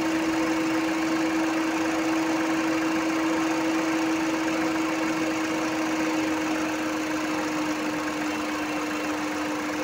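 Volkswagen Polo diesel engine idling steadily, with a constant hum, during a timed injector back-leakage test. Excessive injector back leakage is the cause of its slow, long-cranking starts.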